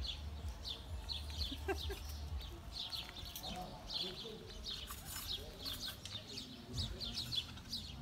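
Small birds chirping busily, many short, high chirps that slide down in pitch, over a low steady rumble.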